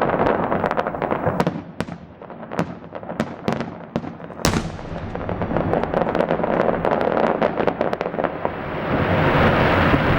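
Fireworks salute bursting overhead: a dense run of crackling pops, one loud bang about four and a half seconds in, and a thick swell of crackle near the end.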